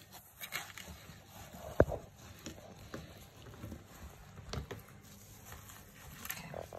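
Wet squelching and crackling of hands pulling the guts out of a raw muttonbird (sooty shearwater) carcass, with scattered soft clicks and one sharp click about two seconds in.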